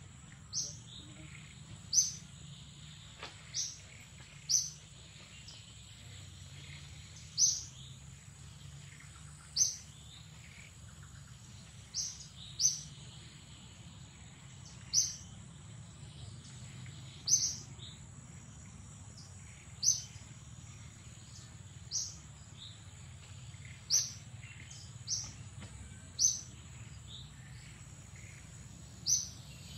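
A bird giving short, sharp high chirps, one about every two seconds, over a steady high-pitched whine and low outdoor background noise.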